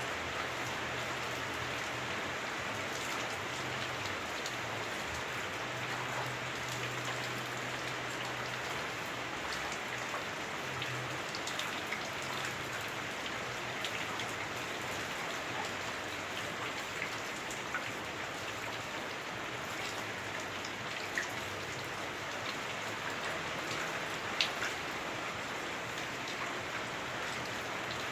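Heavy rain on a house roof, heard from indoors: a steady dense hiss with scattered small drip ticks. Two sharper ticks come in the last third.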